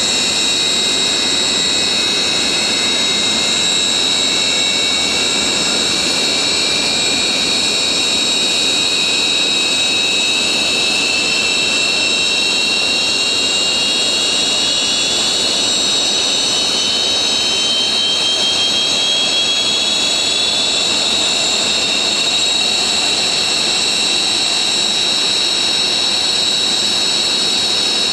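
Military jet engines running on the ground with a loud, steady high whine, while another jet engine's whine rises slowly and evenly in pitch as it spools up during engine start.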